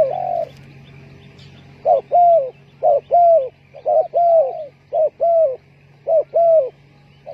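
Spotted dove cooing: a phrase of a short coo followed by a longer, falling coo, repeated about once a second, five times.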